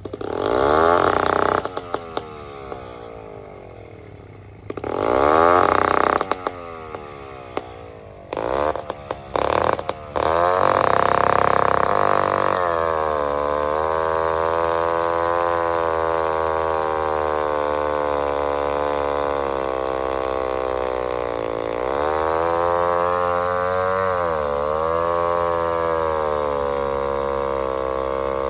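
Vintage two-stroke chainsaw being started: it fires briefly twice and runs down each time, sputters with a few short pops, then catches at about ten seconds and settles into steady running with small rises and dips in speed.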